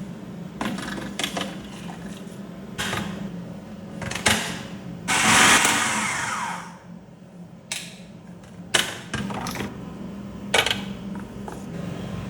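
Kitchen work sounds: scattered knocks and clicks of utensils and containers over a steady low hum, with a loud rushing noise lasting about two seconds near the middle.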